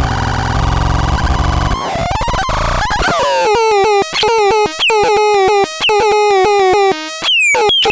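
Synthesizer playing a harsh, buzzing, noisy drone for about three seconds, then switching to a string of short notes, roughly two a second, each swooping down in pitch as it starts.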